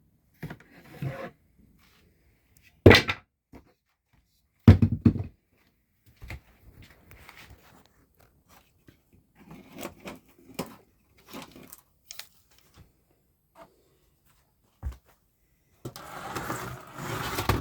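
Objects being moved and set down on a hobby bench: two sharp knocks about three and five seconds in, light clicks and clatter between them, and a longer scraping, rustling stretch near the end.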